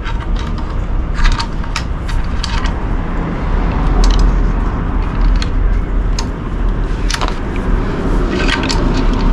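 Metal tools and exhaust parts clinking and scraping in short, irregular clicks while a muffler is being fitted, over a steady low rumble.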